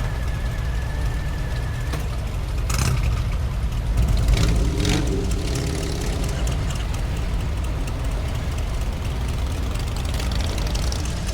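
Motorcycle engine running at a steady idle, a low rumble, with a brief louder swell about four to five seconds in.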